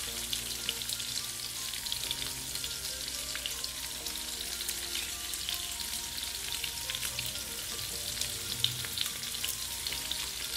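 Peeled shrimp frying in hot canola oil in a nonstick pan: a steady sizzle dotted with fine crackling pops as they are turned over with a spatula.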